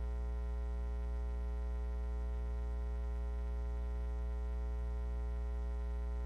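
Steady electrical mains hum: a low, unchanging buzz with a long row of even overtones.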